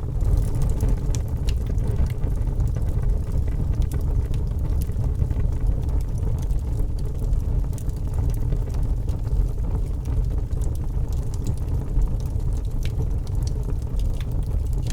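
Wood fire burning in a fireplace: a steady low rumble of the flames, with small, scattered crackles and pops from the burning wood.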